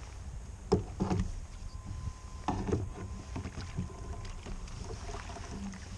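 Knocks and clunks against a fishing kayak's hull, two about a second in and two more around two and a half seconds in, over a steady low rumble.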